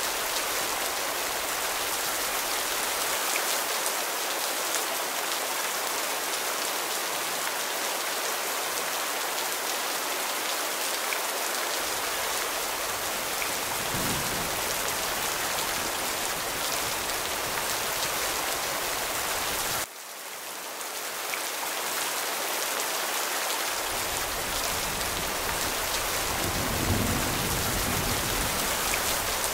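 Steady heavy rain. About two-thirds of the way through, the rain drops off suddenly for a moment and swells back. A low rumble of thunder builds near the end.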